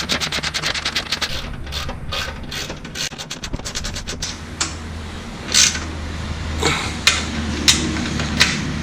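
Socket ratchet wrench clicking rapidly as nylon lock nuts are run down onto the mulch kit's mounting bolts, then slower, separate clicks over the second half as the nuts are snugged up.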